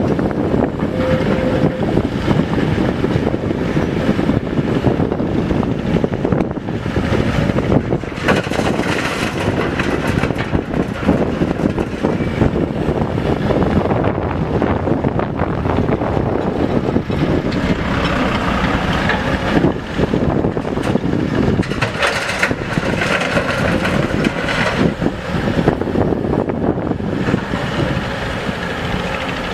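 Heavy diesel machinery engine running steadily under load, with louder stretches and a few sharp knocks.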